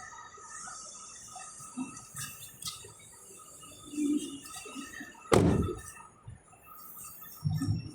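Car door shutting: one loud thunk about five seconds in, with a few lighter knocks before and after.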